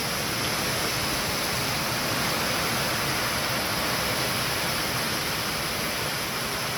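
High storm wind blowing hard, a steady, unbroken rushing noise.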